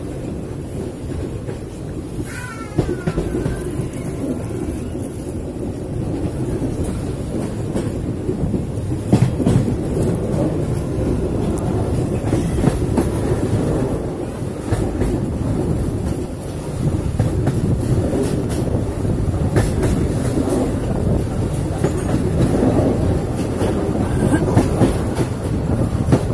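Moving train running along the track, with a steady low rumble and the clatter of its wheels over the rails. A brief high squeal comes about two and a half seconds in.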